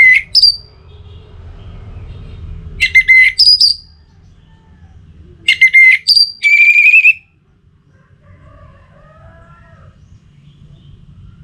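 Orange-headed thrush singing: three loud phrases of quick, sharp notes, each ending on a high clear note, spaced a few seconds apart. Fainter, lower warbling notes follow later, over a low steady background hum.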